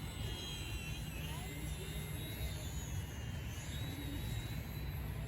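Small electric RC airplane's motor whining in flight, its pitch wavering, over a steady low rumble.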